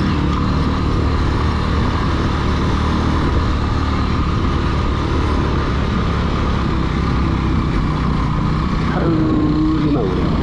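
Motorcycle engine running steadily as the bike is ridden over rough ground.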